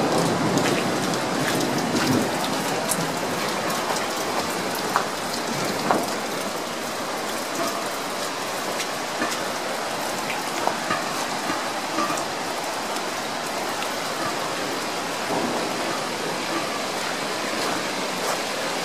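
Heavy storm rain pouring steadily, with many scattered sharp ticks of drops striking nearby surfaces.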